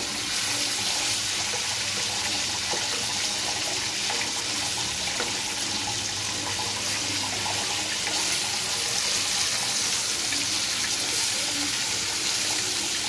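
Chicken pieces frying in hot oil in a nonstick kadai: a steady, dense sizzle, with the pieces being turned with a spatula.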